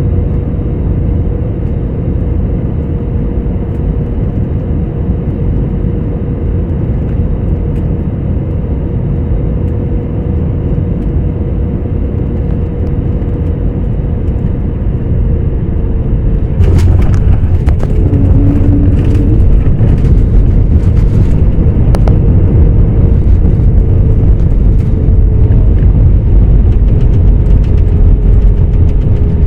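Airliner cabin noise during landing: a steady rush with an engine hum, then, about two-thirds of the way through, a sudden thump and several knocks as the wheels touch down, followed by a louder, heavier rumble as the plane rolls along the runway.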